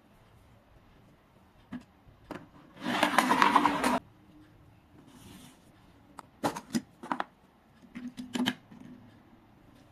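Handling noises from opening a mystery-egg toy: scattered clicks and taps, with a loud, scratchy, rustling noise lasting about a second around three seconds in, and a few more sharp clicks later.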